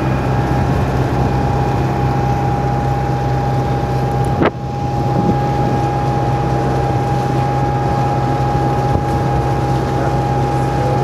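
Engine of a passenger tour boat running steadily at cruising speed: a low drone with a steady whine above it. A single sharp click with a brief drop in level comes about four and a half seconds in.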